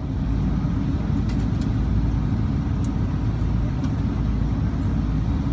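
Steady low rumble in the cabin of a Boeing 777-200ER, with no rise in engine pitch and a few faint high ticks.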